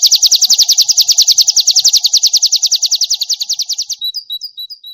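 White-eye (pleci) singing a long, very rapid trill of high repeated notes, more than a dozen a second. The trill fades near the end and breaks into a few separate short notes before stopping.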